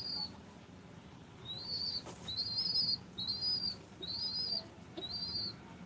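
A bird calling: a high, slightly wavering whistled note repeated about once a second, five times.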